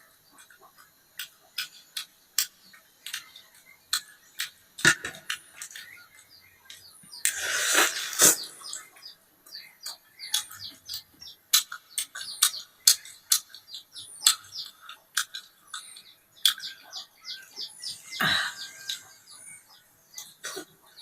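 A person eating spicy instant noodles and chicken close to the microphone: irregular wet chewing clicks and smacks, with a longer noisy stretch about seven seconds in and a shorter one near the end.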